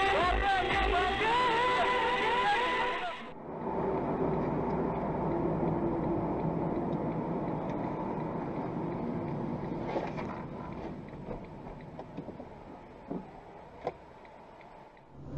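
Music for about three seconds, then a cut to the steady running and road noise of a car being driven, slowly fading, with a few faint ticks near the end.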